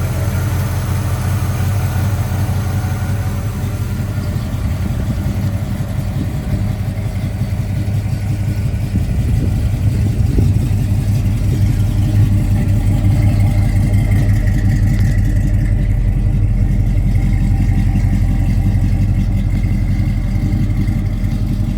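A 1984 Chevrolet C10 pickup's engine running steadily, growing louder about nine seconds in and holding there.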